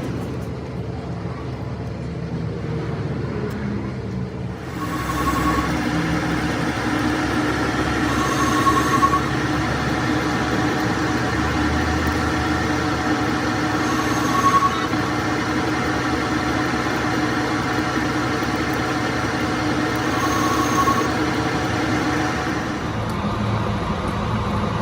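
Metal lathe running steadily, machining steel. About five seconds in the sound grows louder and rougher, as in cutting, with brief high tones recurring every few seconds.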